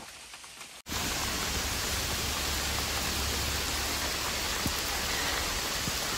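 Heavy rain falling steadily in a forest, an even hiss. It starts as a fainter patter, then jumps abruptly to a much louder, steady downpour about a second in.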